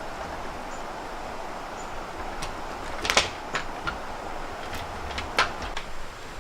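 Several sharp knocks and clicks, like objects being handled, the loudest about three seconds in and again near the end, over a steady background hiss.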